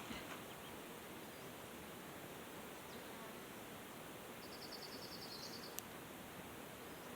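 Faint insect buzzing over a steady low hiss. About two-thirds through comes roughly a second of rapid high-pitched ticking, then a single sharp click.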